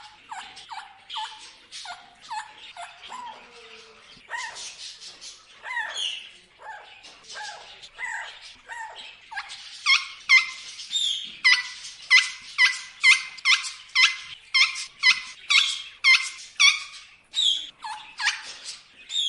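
Parrot giving a long run of short calls, each dropping in pitch. The calls are uneven at first, then about halfway through they turn louder and steady at roughly two a second.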